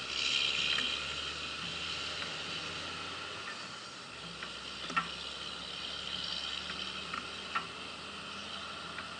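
Steady hissing wind and road noise from riding a Honda Gold Wing motorcycle, with a faint low engine hum beneath and a couple of sharp ticks, one about halfway through and one later.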